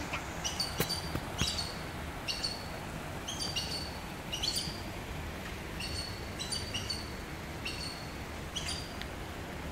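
Birds chirping: short, high, slightly falling calls repeated about once or twice a second, over a low steady background hum.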